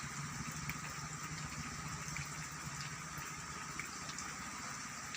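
Steady drizzle falling, a constant even rain noise with faint scattered ticks of drops.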